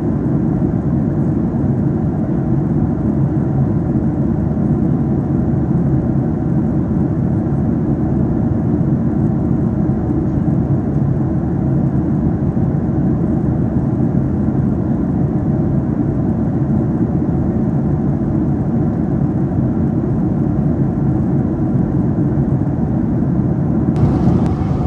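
Steady low drone of a Boeing 737-800 in cruise, heard from inside the passenger cabin. The sound shifts abruptly about a second before the end.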